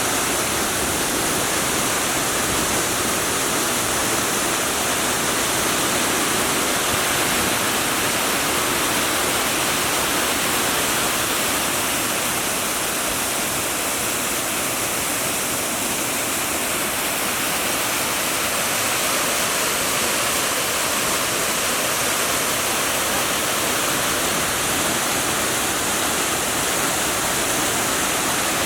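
The Rhine Falls, a broad, high-volume waterfall, making a steady, unbroken rush of falling water.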